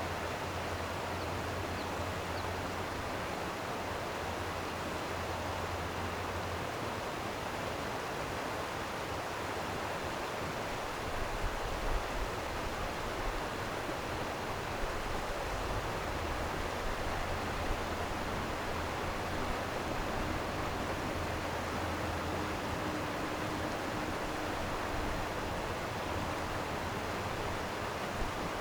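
Flowing stream water rushing steadily, an even, unbroken wash of noise.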